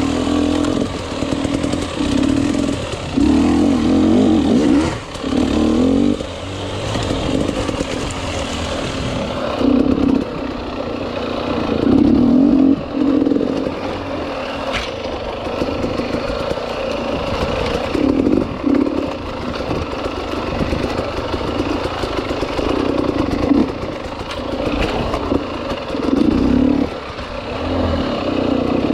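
Enduro dirt bike engine revving and easing off again and again as the throttle is worked, with the bike's chassis clattering over rough ground.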